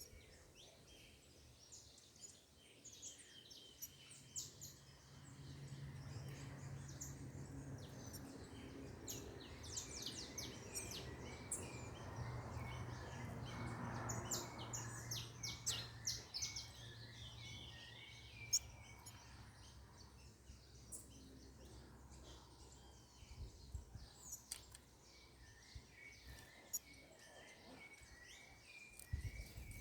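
Many small birds chirping, with short high calls coming thick and fast. A low hum rises a few seconds in, is loudest around the middle, and fades out well before the end.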